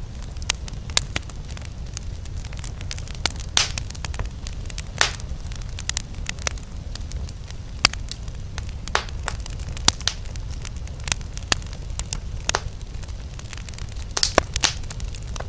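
Campfire crackling: irregular sharp pops and snaps from burning wood, a few louder ones scattered through, over a steady low rumble.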